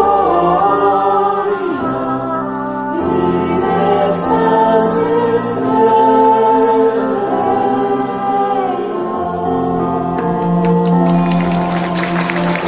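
A choir singing in sustained chords. Applause begins near the end as the song closes.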